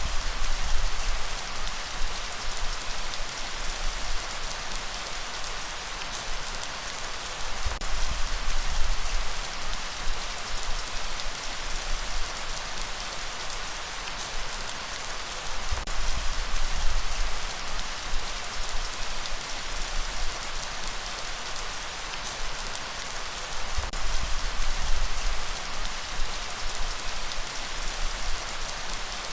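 Steady rainfall, a dense even hiss of drops. A low rumble swells about every eight seconds.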